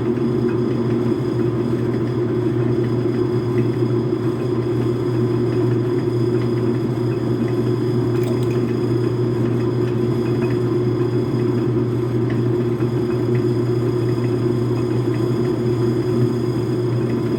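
Metal lathe running steadily with a constant hum.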